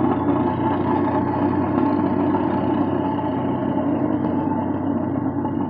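An engine running steadily: an even, unchanging hum with no revving.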